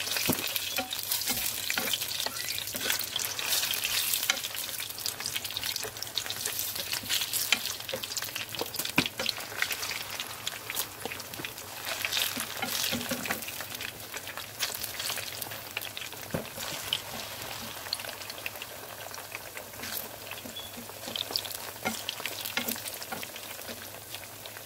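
Sliced ripe plantain deep-frying in hot cooking oil in a non-stick pan: a dense, crackling sizzle dotted with sharp pops and clicks as more slices go in. It is loudest in the first few seconds and settles a little quieter later on.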